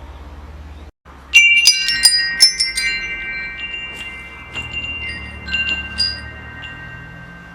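Metal wind chimes: after a brief dropout about a second in, several chimes are struck in a quick cluster and ring on with long sustained tones, followed by scattered lighter strikes that thin out. A steady low rumble runs underneath.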